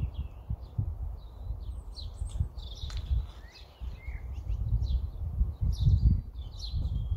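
Small birds chirping and singing in many short calls, over a loud, uneven low rumble that swells and fades.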